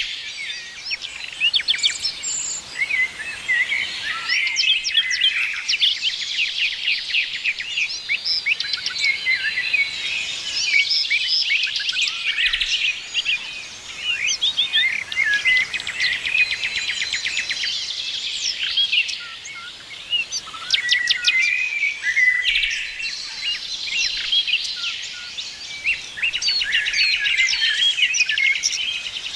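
A chorus of many songbirds singing and chirping at once, overlapping high trills, rapid chirp runs and short whistled notes that go on without a break.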